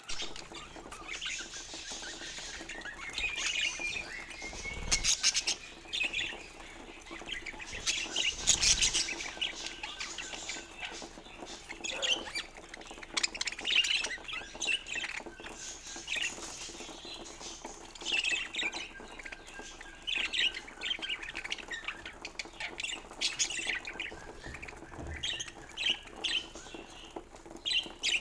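Pet budgerigars chirping and chattering in quick, irregular high calls, with a couple of louder short noises about five and eight seconds in.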